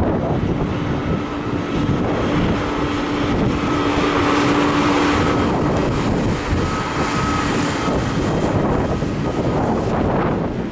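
Jet airliner engines with a steady tone that holds and then fades out about two-thirds of the way through, under heavy wind buffeting the microphone.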